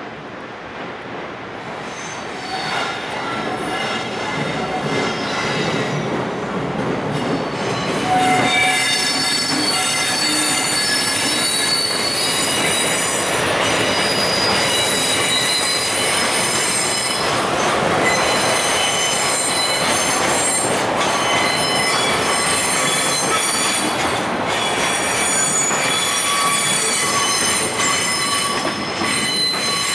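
Freight train of an EF510 electric locomotive and container wagons rolling in, growing louder over the first eight seconds. From then on, the wagons' wheels and brakes squeal with many high-pitched tones over the rumble as the train slows to arrive at the station.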